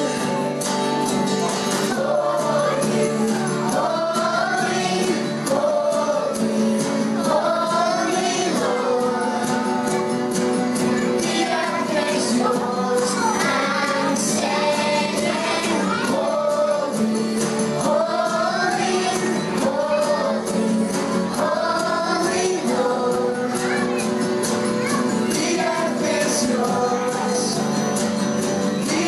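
A song performed live, with singing voices, women's and children's among them, over sustained instrumental backing.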